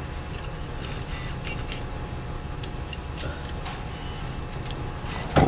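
Car engine idling while stopped, a steady low rumble, with scattered light clicks and a sharp knock near the end.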